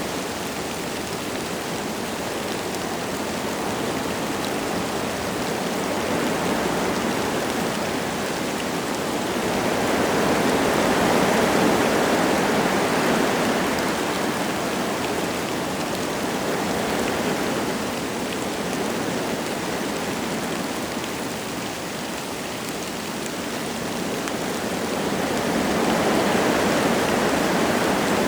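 Wind gusting through forest trees, with light rain falling: a steady rushing that swells in a gust about ten seconds in and again near the end.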